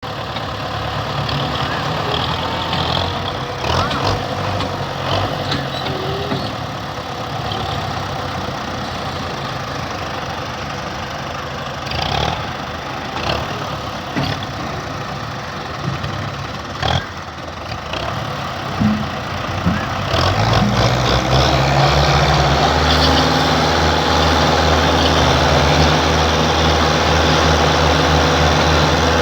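Tractor engine running steadily, with a few short knocks over the first twenty seconds. About twenty seconds in the engine gets louder and holds there.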